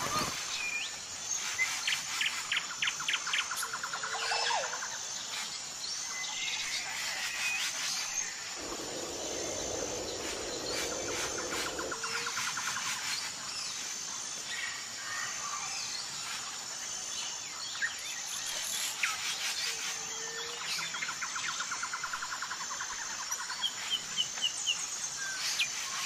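Several wild birds chirping and trilling, with short rapid runs of notes, over a high, thin chirp that repeats at an even pace. A low rushing noise comes in for about three seconds in the middle.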